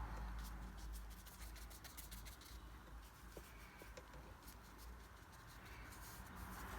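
Faint scratchy rubbing of a paintbrush on watercolour paper, applying paint in short strokes, strongest at the start and again near the end, with a low room hum.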